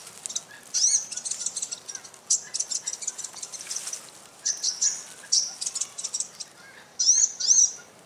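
Small songbird calling close by: quick runs of high-pitched chirps and squeaky, up-and-down notes in bursts, loudest about a second in and again near the end.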